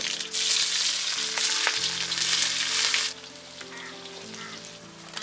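Cumin seeds, dried red chillies and sliced onions frying in hot oil in a black wok, sizzling hard with a few sharp spatters. The sizzle drops off suddenly about three seconds in, leaving a softer sizzle.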